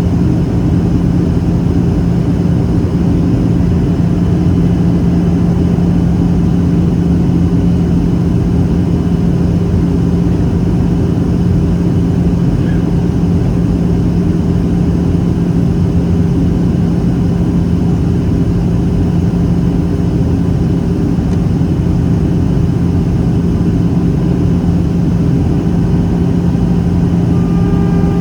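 Boeing 737-800 in flight heard from inside the cabin over the wing: the steady drone of its CFM56 jet engines and rushing air, with a constant low hum and no change in thrust.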